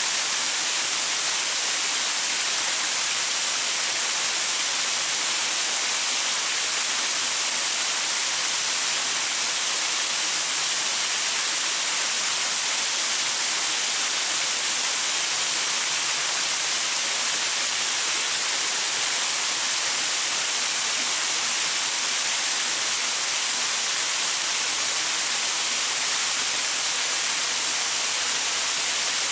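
Small waterfall pouring onto rocks: a steady, even hiss of falling and splashing water.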